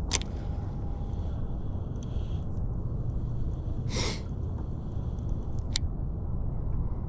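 Steady low rumbling noise with a few short, sharp clicks and a brief rustle about four seconds in.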